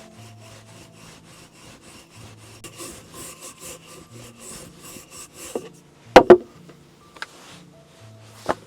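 Hand saw cutting wood in quick, even strokes, about three a second, followed by two loud knocks close together about six seconds in and another near the end.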